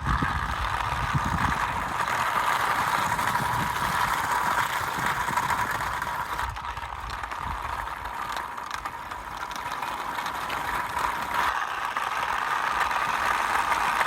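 Small battery-powered DC motor of a homemade cardboard-and-can toy truck running with a steady whine and a rattle from its drive. It grows a little quieter for a few seconds in the middle.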